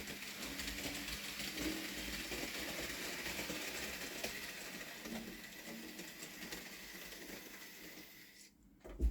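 Bachmann Rheneas model locomotive running with its wagons: a steady small-motor whirr and wheel rattle, with scattered clicks over the track. The sound fades away about eight and a half seconds in, and a single thump follows near the end.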